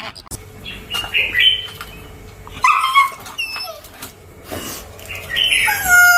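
Dog giving several short, high-pitched whines and yelps, the longest and loudest near the end.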